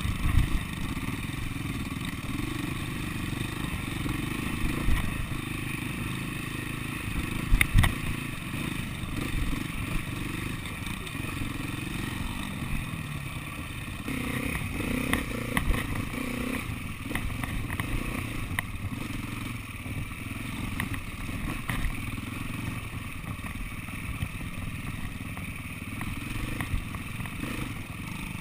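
SWM 300RS single-cylinder four-stroke dirt bike engine running at low speed over rough ground, heard from its handlebar, with knocks and clatter from the bike over bumps, the loudest about 8 seconds in.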